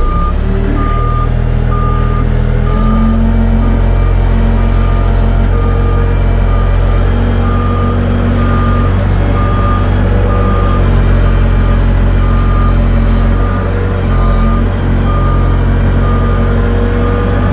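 Big diesel engine of a heavy machine running in low gear, its pitch stepping up about three seconds in, while its backup alarm beeps steadily about once every three-quarters of a second.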